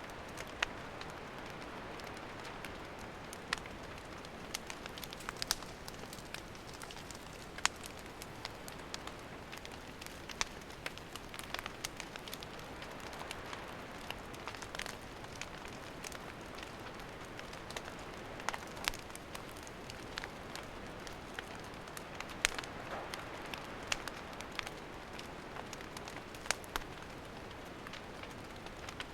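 Wood campfire burning: a steady hiss with frequent sharp crackles and pops from the firewood.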